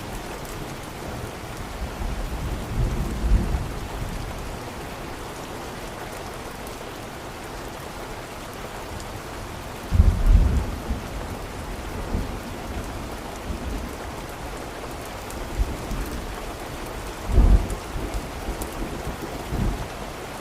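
Steady rain with occasional low rumbles of thunder, the loudest about ten seconds in and weaker ones a few seconds in and near the end.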